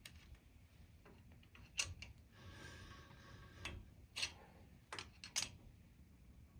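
A handful of sharp light clicks and knocks from tools and parts being handled, with a short rustle about two and a half seconds in.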